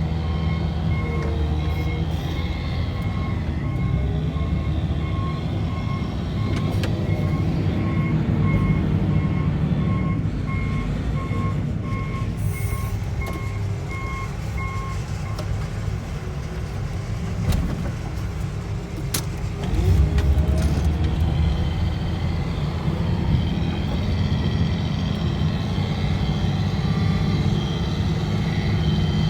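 Diesel engine of a snow-clearing machine running steadily while its reverse alarm beeps about twice a second, the beeping stopping about halfway through; the engine gets louder briefly after about 20 seconds.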